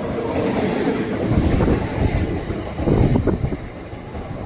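Electric multiple unit local train running past at speed, its wheels rumbling and clattering over the rails, growing louder about a second in with a couple of heavier surges.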